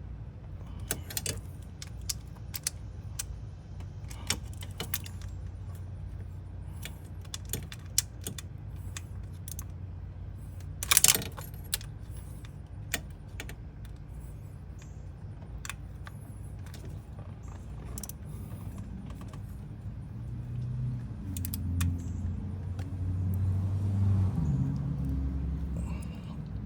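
Metal tools and parts clicking and clinking during hand work in an engine bay, over a steady low hum, with one louder metallic click about eleven seconds in. A low, wavering rumble swells near the end.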